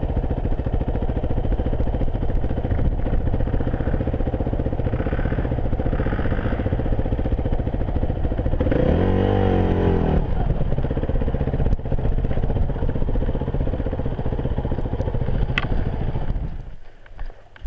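Enduro motorcycle engine running under way with a steady pulsing note. It revs up and back down once, about nine seconds in, and drops away near the end.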